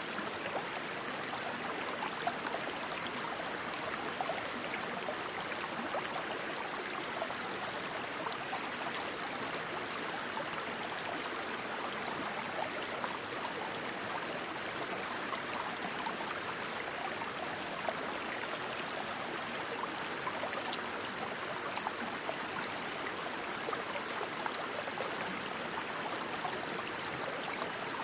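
Rushing stream water, a steady rush, with short high-pitched chirps scattered over it and a quick trill of chirps about eleven seconds in.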